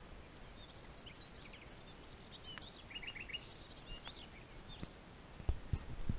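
Several small birds chirping and trilling, one with a quick run of four notes, over a steady low rumble of movement along a dirt track. A few low thumps near the end are the loudest sounds.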